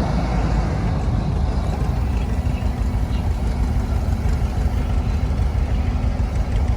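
A large engine idling steadily, its sound sitting mostly low in pitch with an even running beat.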